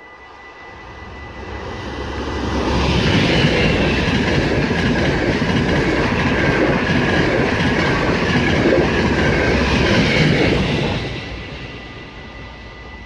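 NS yellow-and-blue passenger train passing at speed on the rails. The rumble and rail clatter build over a few seconds, hold loud for about eight seconds while the coaches go by, then fade away.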